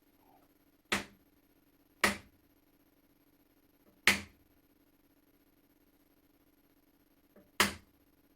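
Four sharp hammer blows on a metal punch, spaced unevenly, driving out a rusted pin that holds the barrel of an antique flintlock shotgun in its wooden stock.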